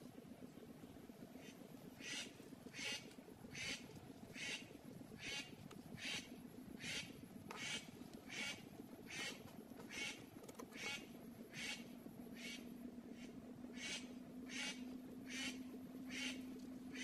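A bird giving short high calls over and over at a very even pace, about one every three quarters of a second, starting about a second and a half in.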